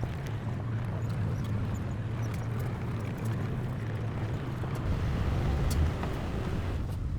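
Diesel engine of heavy earthmoving machinery running steadily under load, with scattered light clicks and clanks over the engine noise, swelling slightly near the end.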